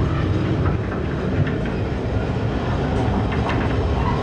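Railroad passenger car rolling along the track, a steady low rumble with a few scattered clicks from the wheels over the rails.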